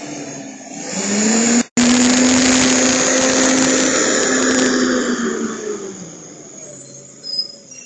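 McNeilus garbage truck's engine revving up, holding at high speed for a few seconds with a steady hum, then winding back down.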